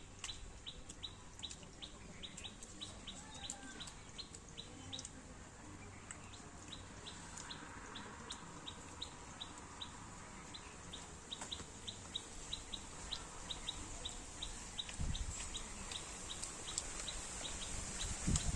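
Outdoor animal sounds: a short, high chirp repeating steadily about four times a second, with faint clucking in the background and a few low thumps near the end.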